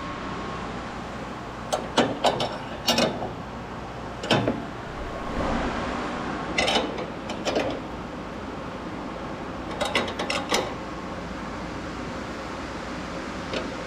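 Scattered sharp clicks and clinks of hand tools and metal parts being handled, a few in quick clusters, over a steady low hum.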